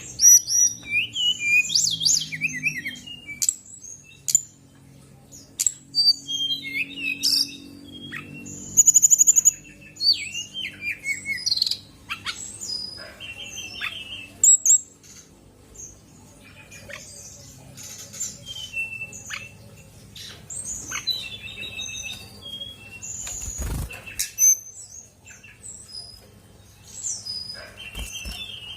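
Female fulvous-chested jungle flycatcher (Cyornis olivaceus) singing actively: a varied run of short chirps, whistled notes and trills, with a rapid high trill about nine seconds in. A couple of dull thumps come near the end.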